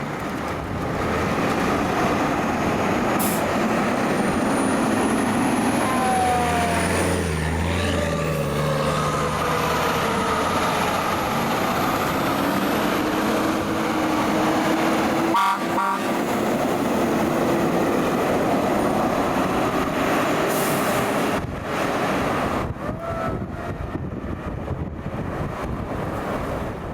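Fire truck responding: steady engine and road noise, with a siren gliding up and down in pitch, and a short, choppy horn blast about fifteen seconds in.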